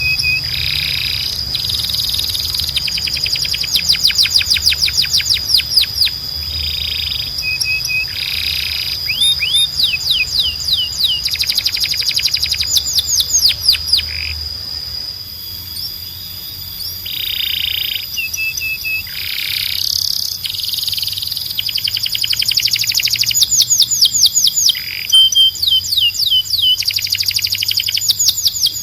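Domestic canary singing a long song of fast trills, runs of rapid repeated notes that sweep down in pitch. These alternate with short held whistled notes and brief buzzy rolls. A steady high tone runs underneath.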